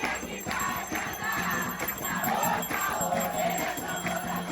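Group singing a ponto (ceremonial chant) for Xangô, with jingling percussion keeping the rhythm; the sung line swells again about halfway through.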